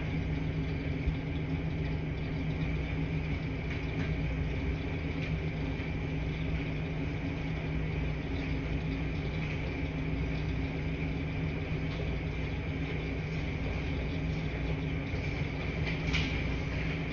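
Washing machines running in a laundry room: a steady low hum and rumble with a fainter high whine over it, and a light click or rattle near the end.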